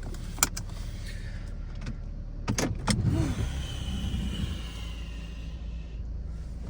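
Steady low rumble, with a few sharp clicks and, about halfway through, a faint high whine lasting a couple of seconds.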